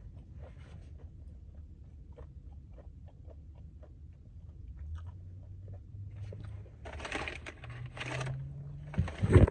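Chewing crunchy fried popcorn chicken: faint crackly crunches over a low steady hum. Near the end come two rustling swishes and then a brief, loud knock.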